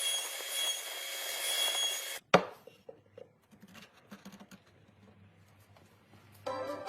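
A power tool working wood, a steady hiss with a thin high whine, cuts off about two seconds in. A sharp knock follows, then faint scattered taps and clicks on wood over a low hum.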